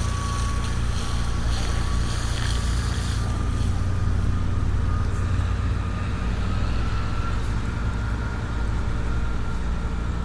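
High-pressure washer pump motor running steadily under water pressure: a constant low hum with a hiss over it and a thin whine that creeps slightly up in pitch.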